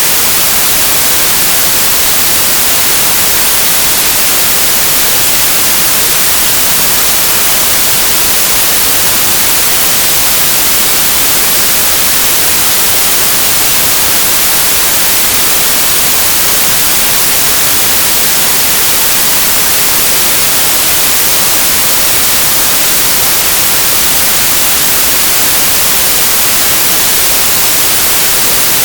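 Synthesised stereo white noise: a steady, loud, even hiss with flat power across the spectrum, bright and unchanging, with no fades or loops.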